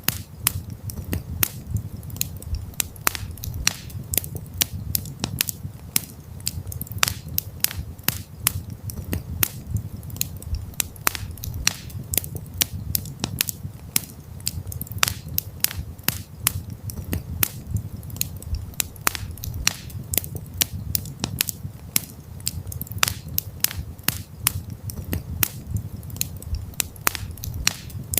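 Wood campfire crackling, with irregular sharp pops and snaps several times a second over a low, steady rumble of the burning fire.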